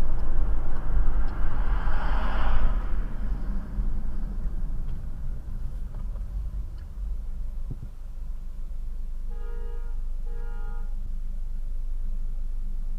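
Steady low road and engine rumble from a car driving. A passing whoosh comes around two seconds in, and two short car-horn beeps sound about nine and a half seconds in.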